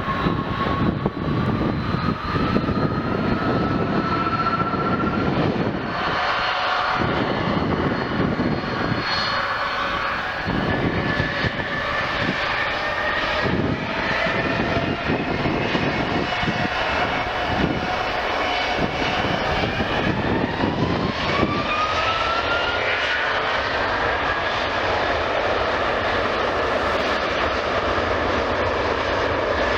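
Airbus A330-300 airliner's Pratt & Whitney PW4000 turbofan engines running, with a rumble under a steady whine; the whine climbs in pitch about two-thirds of the way through as thrust increases.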